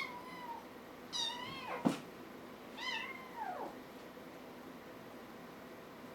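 A kitten meowing three times in the first four seconds, in high calls that fall in pitch at the end, with a sharp click about two seconds in.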